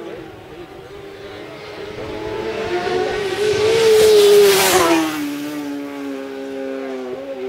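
Superbike racing motorcycle passing at speed, its engine growing louder to a peak about four and a half seconds in, then dropping in pitch as it goes by. Engine notes of other bikes carry on behind it.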